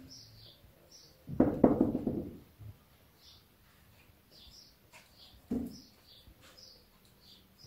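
Small birds chirping, short high chirps repeating every half second or so. A louder low rustle about a second and a half in, and a shorter one past five seconds.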